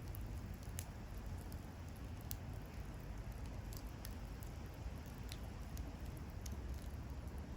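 Wood bonfire crackling: scattered sharp pops and snaps, irregular and about one or two a second, over a steady low rumble.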